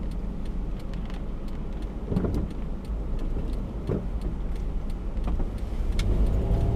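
Car driving in a gusty storm: a steady low road and engine rumble with wind buffeting, and scattered light ticks on the car throughout.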